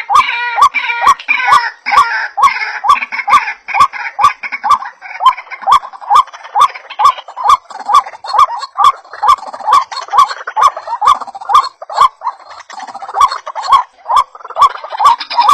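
White-breasted waterhen (ruak-ruak) calling: a long fast run of short, repeated rising croaks, about three a second, each with a sharp click. A busier, higher chatter joins in over the first few seconds.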